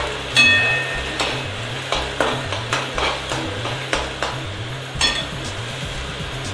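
Sliced onions frying in mustard oil in a metal kadai, sizzling steadily while a metal spatula stirs and scrapes them, knocking against the pan about a dozen times. The loudest knock is a ringing metallic clink about half a second in. The onions are being fried down toward a deep brown, beresta-style.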